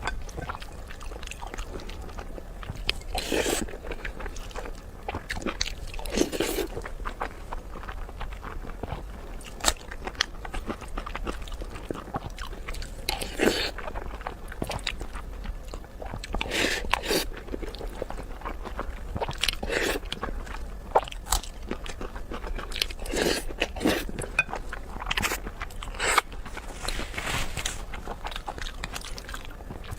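A person eating close to the microphone: chewing and biting with many small wet clicks, and a louder, longer mouth noise every few seconds.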